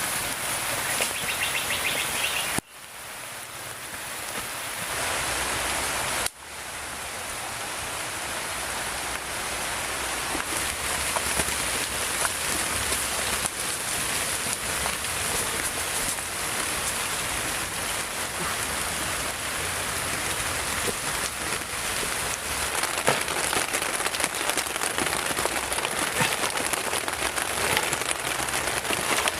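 Heavy rain falling steadily, an even hiss of drops. It cuts out abruptly twice early on and comes back, then grows gradually louder.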